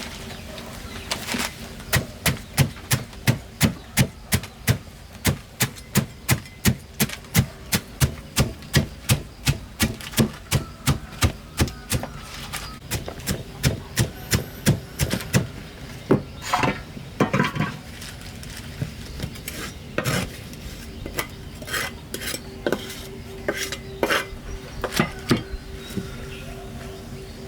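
Kitchen utensil knocking on a hard surface in a steady rhythm, about three strokes a second, for roughly fifteen seconds. It then turns to scattered, irregular clatters, over a steady low hum.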